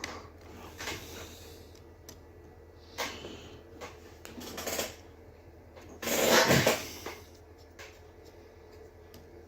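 Small handling noises: light clicks and rubbing as a metal NMRA gauge is fitted over the wheelsets of an HO-scale model locomotive's tender. A louder rushing sound lasts about a second, starting about six seconds in.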